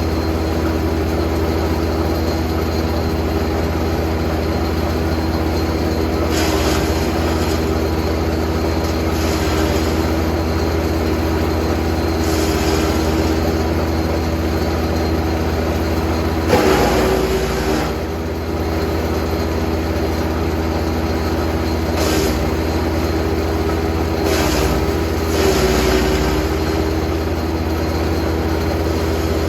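Jansen GTS 1500e wood chipper running steadily, with several short bursts of noise as branches are chipped. The biggest comes about two-thirds of the way through, when the engine's pitch dips briefly under the load.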